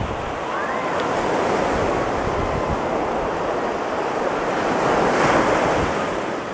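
Ocean surf breaking and washing up the beach, with wind noise on the microphone. The rush swells, peaks about five seconds in, then fades as the wave recedes.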